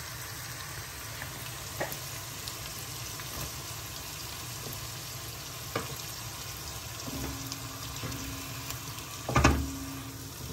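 Onion and ginger-garlic paste with tomato pieces frying in hot oil in a nonstick pan: a steady sizzle, with occasional taps and scrapes of the spatula against the pan. A louder knock comes about nine seconds in.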